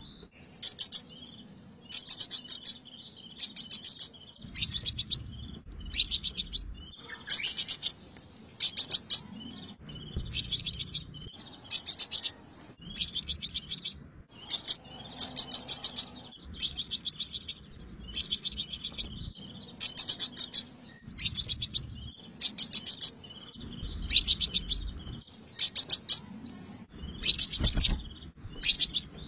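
A sunbird calling: bursts of rapid, high-pitched chipping notes, each burst under a second, repeated every second or two. It is a lure call used to draw wild sunbirds to a trap.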